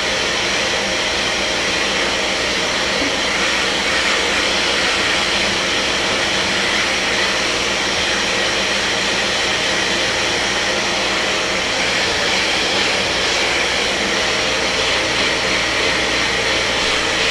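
Kärcher MV 6 P Premium wet-and-dry vacuum cleaner running steadily with an even suction hiss.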